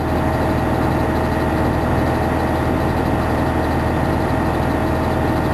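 Fire engine's engine running steadily with a low, even hum.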